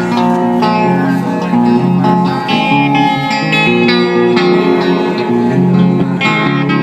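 Instrumental guitar music, a steady run of notes and chords with no singing.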